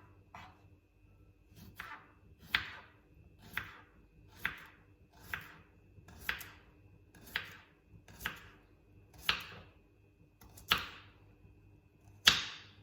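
A series of short, sharp swishing strokes, about one a second, the last one near the end the loudest.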